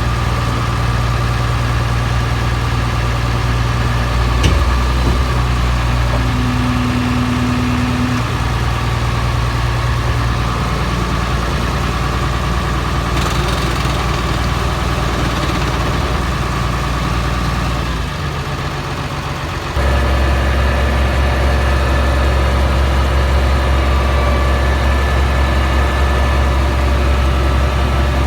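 Engine idling steadily, with a single knock about four seconds in. About eighteen seconds in it dips in level for a couple of seconds, then runs on at a deeper pitch.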